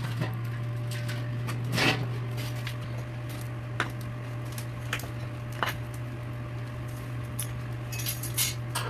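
Scattered light clicks and clinks of utensils and dishes during a meal, over a steady low hum.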